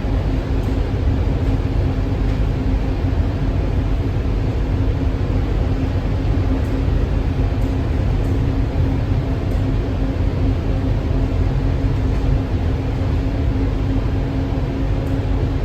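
Cabin ride noise of an Alstom Innovia APM 300R rubber-tyred people mover running at a steady speed: an even rumble with a constant hum over it.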